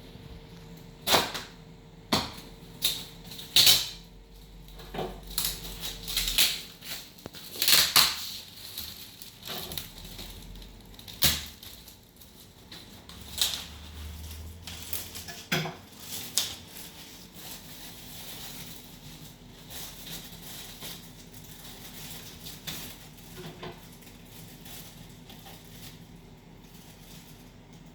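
Packaging being handled: irregular sharp knocks, crackles and scrapes, busiest in the first half and softer and sparser later.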